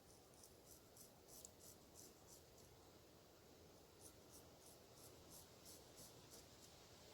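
Straight razor scraping through beard stubble in short, faint strokes, about three a second, in two runs with a pause between. The soap lather has partly dried, so the blade glides less smoothly than it should.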